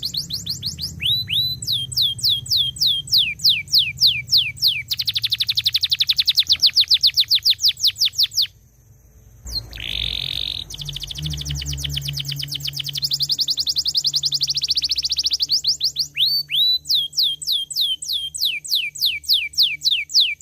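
Canary singing: long rapid trills of repeated falling high notes, broken by a pause of about a second around the middle before the song resumes.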